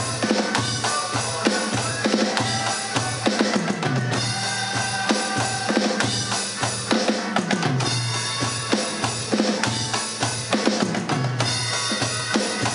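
Drum kit played in a busy, steady groove of bass drum and snare hits, with other band instruments, including low bass notes, playing along.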